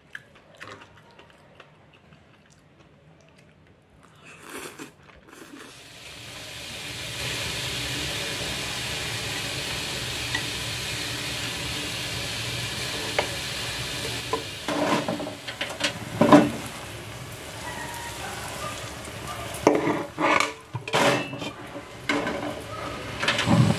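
Enoki mushrooms and egg frying in oil in a non-stick pan: a steady sizzle comes in about six seconds in. Utensils stir and clack against the pan in the second half.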